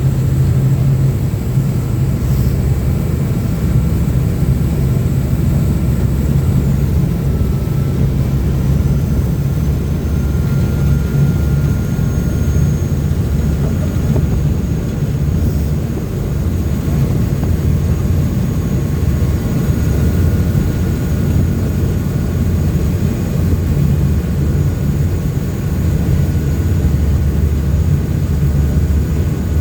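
Uber Boat river catamaran's engines and water-jet drives running steadily under way, a loud, unbroken low drone heard from the open rear deck.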